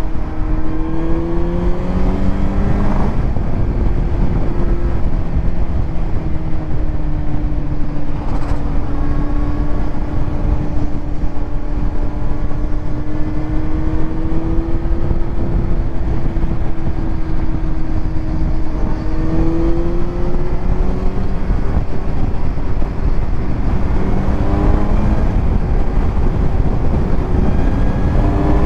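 Kawasaki Z900's inline-four engine through a titanium Arrow exhaust, under way on the road: it revs up and drops back about three seconds in as a gear goes in, then runs at steady revs for a long stretch, with more rises and gear changes near the end, over a constant rush of wind.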